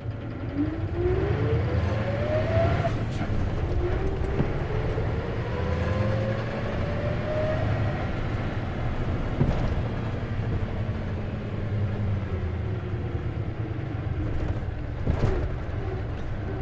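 Isuzu KC-LV380N city bus with a manual gearbox, heard from inside while running and pulling away. A whine rises in pitch twice as it accelerates through the gears, and two single knocks come later. The bus is known for an odd running noise, which the uploader suspects may be a symptom of its manual transmission.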